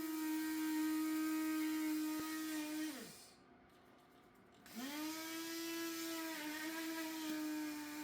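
A small electric motor running with a steady hum. It winds down about three seconds in, starts up again a couple of seconds later, and winds down once more at the end.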